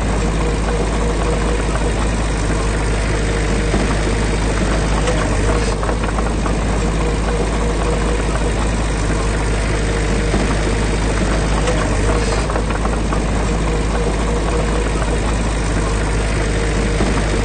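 Heavy diesel engine of earthmoving machinery running steadily at an even pace, with a deep low drone and a fast, regular firing rattle.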